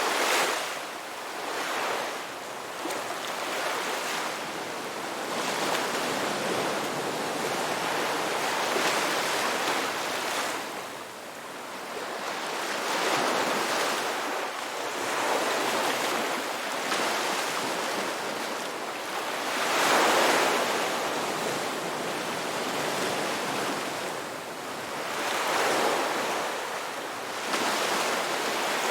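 Ocean surf: waves breaking and washing up in repeated swells every few seconds, with a steady rush of water between them.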